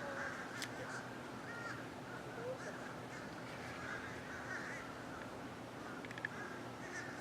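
A flock of birds calling overhead, many short calls overlapping in a continuous chatter, with a few sharp clicks near the end.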